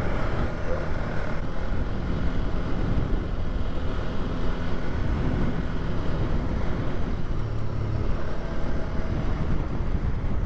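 Polaris quad (ATV) engine running steadily on the move, with a constant low rumble.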